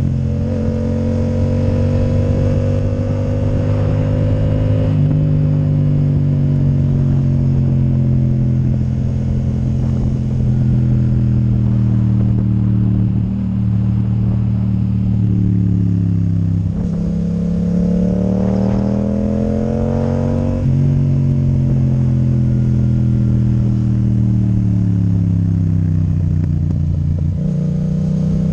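Yamaha MT-07's parallel-twin engine running through an Akrapovic titanium exhaust with the dB killer removed, heard from on the bike while riding. The engine note drifts slowly with the throttle and jumps abruptly in pitch several times. A little past the middle it climbs for about three seconds under acceleration.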